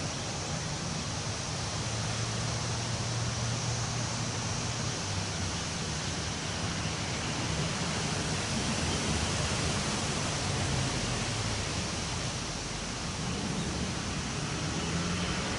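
Wind blowing through the trees: a steady rushing hiss, with a low rumble beneath it.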